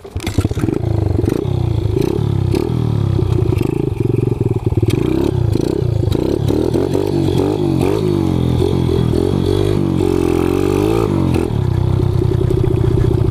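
Kawasaki KLX 110 pit bike's single-cylinder four-stroke engine, bored out to 165 cc and fitted with an FMF exhaust, starting up right at the start and running loud. Through the middle the revs rise and fall repeatedly, then settle into a steadier, higher run near the end.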